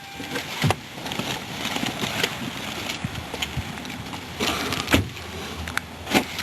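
Car with its engine just switched off: a few sharp clicks and knocks of handling over a steady background hiss, the loudest near the end.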